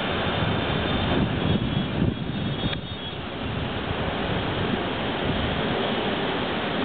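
Steady, loud roar of tornado-force wind, a train- or jet-like rush of noise with no clear pitch, easing briefly a couple of seconds in before building again.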